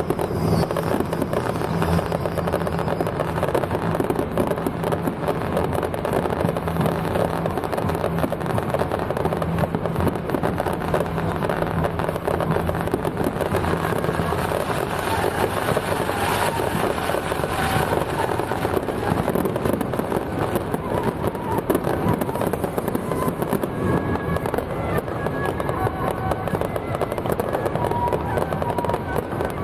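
Fireworks and firecrackers going off in a dense, unbroken crackle, with a steady low hum for the first half.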